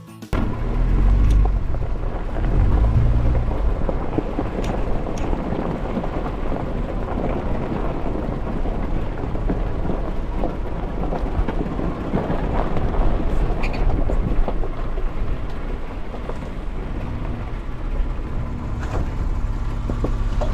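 A car driving, a steady deep rumble with road or tyre noise, with a few faint clicks.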